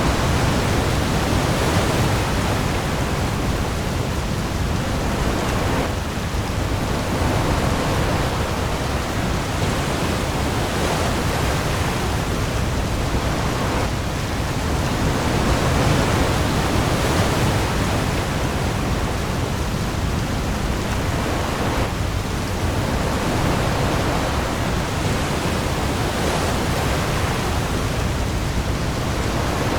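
Heavy rain pouring onto the open sea with waves, a dense continuous hiss that swells and eases every few seconds over a deep low rumble.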